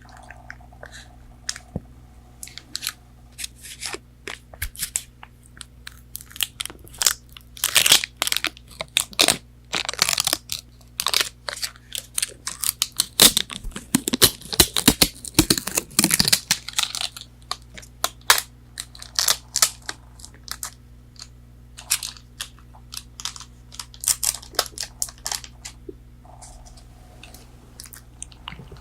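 Close-miked crunching and tearing of fried chicken nuggets being eaten, a run of crisp cracks that is densest and loudest in the middle stretch.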